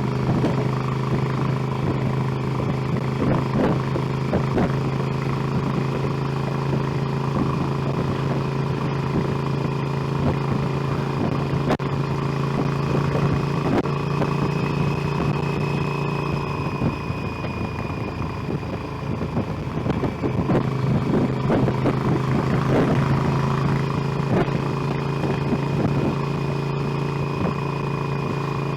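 Motorcycle engine running at a steady cruising pace, with wind and road noise. About two-thirds of the way through, the engine note drops away for a few seconds, as when the rider rolls off the throttle, then picks up again.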